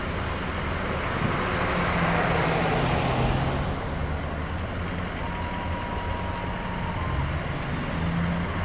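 Motor vehicle engines running with a steady low hum, and a broader rush that swells about two seconds in. A thin steady tone sounds for about two seconds just past the middle; there are no firework bangs.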